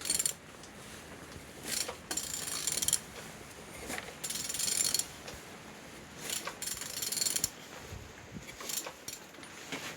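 A ratchet wrench turning an M9R engine over by hand at the crankshaft, its pawl clicking fast in several separate bursts. The engine turns freely: it is not seized.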